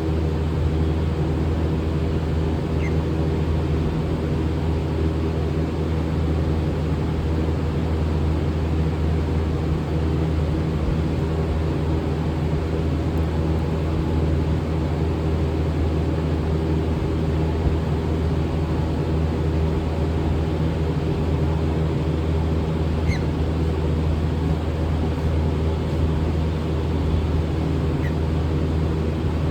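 A steady, low mechanical hum that does not change, with three faint, brief chirps.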